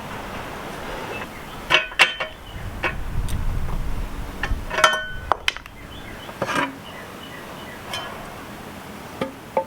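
Metal tools and parts clinking as they are handled: a few separate knocks, near two and near five seconds in, the later one ringing briefly.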